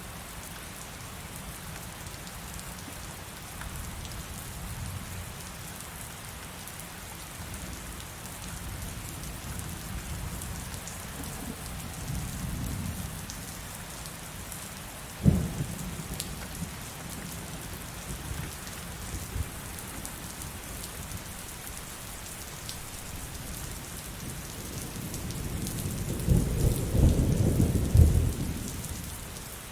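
Heavy rain falling steadily, with thunder: a low rumble about twelve seconds in, a sharp crack about halfway through, and a longer, louder roll of thunder near the end.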